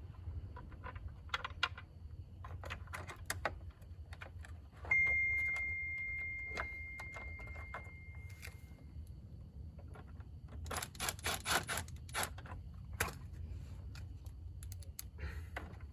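Metal clinks, rattles and clatter of winch parts and hardware being handled during a winch install. About five seconds in, one struck metal piece rings and dies away over a few seconds, and around eleven seconds there is a quick run of rattling.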